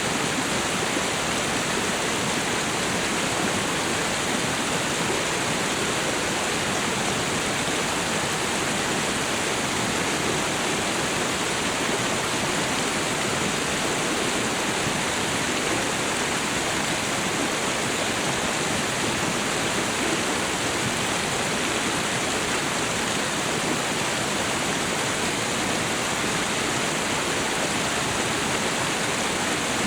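Waterfall and river water rushing steadily in an even, unbroken hiss, with no change in level.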